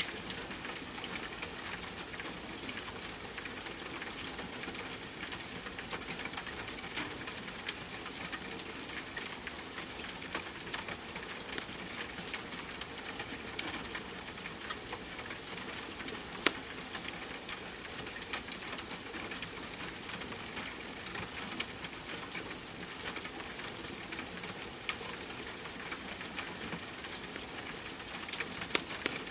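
Steady rain hiss mixed with a crackling wood fire, scattered small pops throughout and one sharper pop about sixteen seconds in.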